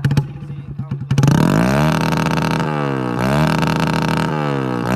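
Hero Splendor motorcycle's single-cylinder engine, exhausting through a tractor silencer, idling at first. About a second in it is revved up hard, then blipped up and down several times.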